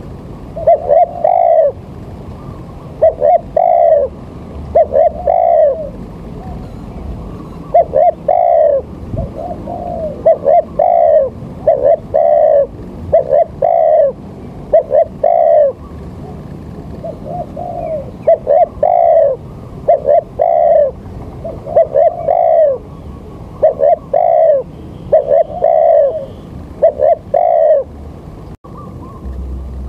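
A bird calling over and over: short, arched notes in quick pairs and triplets, repeated about every second or two.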